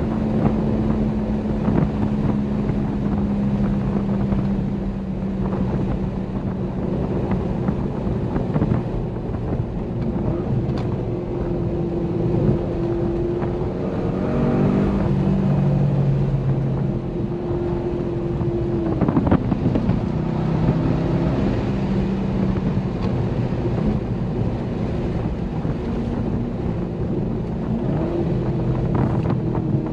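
Corvette C6 Grand Sport's 6.2-litre LS3 V8 running under way, its engine note rising and falling several times, with wind and road noise, picked up from the trunk.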